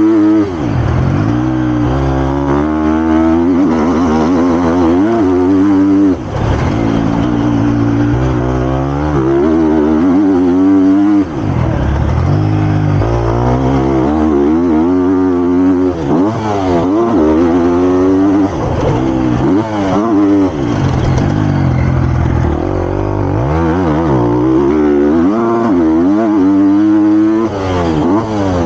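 Triumph TF250-X's 250cc single-cylinder four-stroke motocross engine under hard riding, its pitch repeatedly climbing on the throttle and through the gears, then dropping back off the throttle, with brief sudden cuts about 6 and 11 seconds in.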